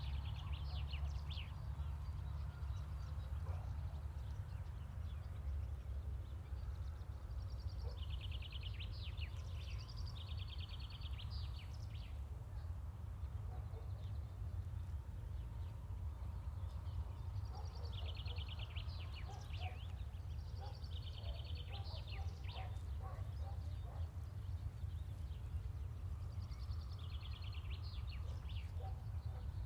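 A songbird singing short trilled phrases in bursts roughly every nine or ten seconds, over a low steady hum.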